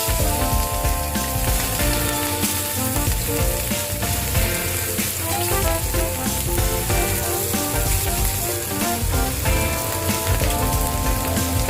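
Shrimp heads frying in hot oil in a pan, a steady sizzle that starts right away, with background music playing over it.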